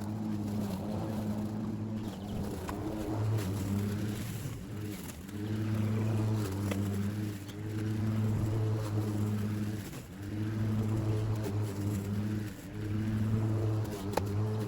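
Battery-powered lawn mower running, a steady motor-and-blade hum that swells and dips every two seconds or so.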